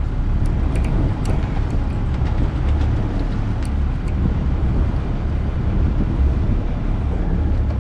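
Steady low rumble of a sportfishing boat's engine under way, with wind and water noise and a few faint clicks.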